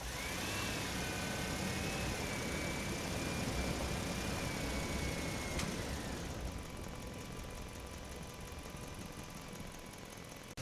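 A motor running steadily, with a faint wavering whine over the first six seconds or so.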